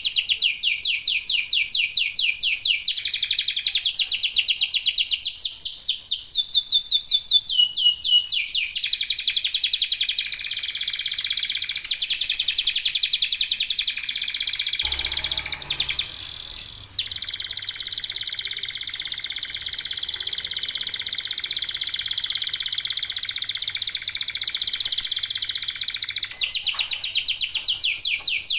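Local domestic canaries singing continuously in fast trills and rolling runs of rapid repeated notes, with several birds singing together. The song breaks off briefly about 16 seconds in, then resumes.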